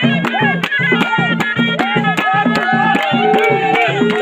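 Traditional Moroccan folk music: a ghaita (double-reed shawm) playing a winding, ornamented melody over a steady drum beat.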